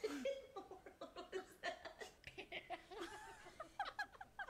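Human laughter: a run of short giggles and chuckles.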